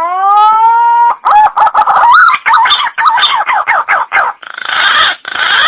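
Recorded green pigeon (punai) call played loud and distorted. A long note rises and holds for about a second, then comes a quick run of wavering, warbling notes, then three harsh stretches that cut off sharply.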